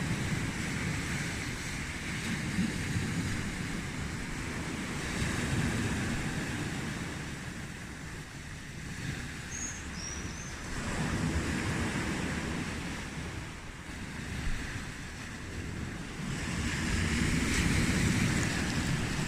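Sea waves breaking and washing up on a beach, the surf swelling and falling back about every five to six seconds. A brief high chirp is heard about halfway through.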